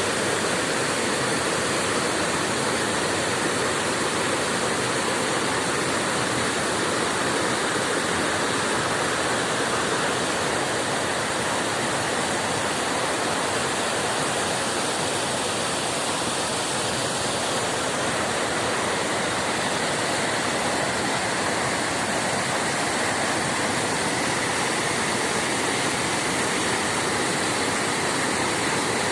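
A river in spate, running full after rain: steady, loud rushing of fast water that never lets up.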